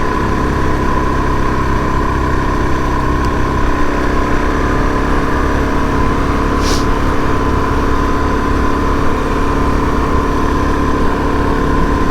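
Suzuki DR-Z400S single-cylinder four-stroke engine running at a steady road speed under the rider, with wind rushing over the bike-mounted microphone. A brief hiss comes about halfway through.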